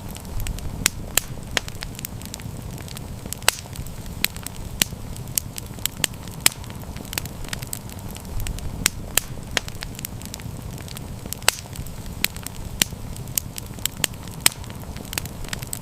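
Campfire burning with frequent sharp, irregular crackles and pops over a steady low rumble of flame.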